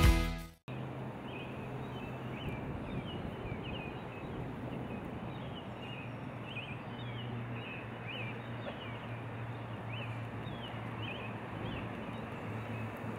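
Outdoor waterside ambience: a steady background hiss with a low steady hum, and a bird calling short high chirps about once a second. A music track cuts off just under a second in.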